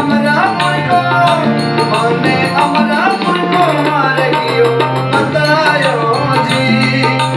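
Rajasthani devotional bhajan music: a voice holds and bends a drawn-out melodic line over sustained accompanying notes and a steady hand-drum rhythm.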